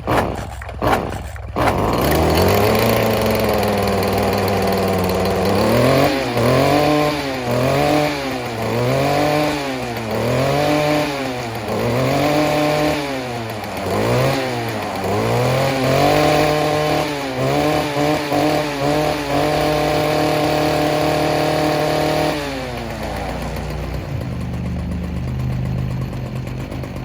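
Stihl curved-shaft two-stroke string trimmer being pull-started, catching after a few pulls. It is then revved up and down about once a second, held at high revs for a few seconds, and let drop back to a steady idle.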